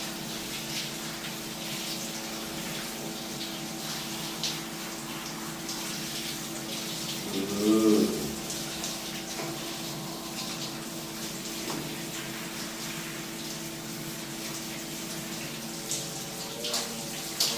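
Water running steadily from a tap or shower during a bath, with a steady low hum underneath. About eight seconds in comes one short, loud pitched vocal sound.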